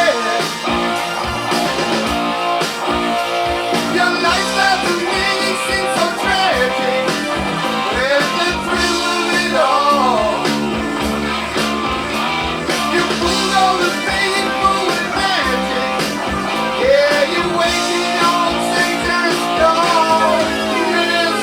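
Heavy metal rock song from a 1981 vinyl LP, with electric guitar and a male lead vocal.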